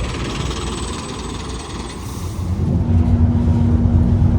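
Vehicle engine running, a noisy rumble that settles into a steady low hum with a constant tone about two-thirds of the way through.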